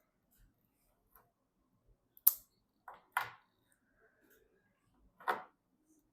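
Sharp clicks and knocks of computer parts being handled and fitted during PC assembly: a loud single click a little over two seconds in, a pair of clicks around three seconds, and another about five seconds in.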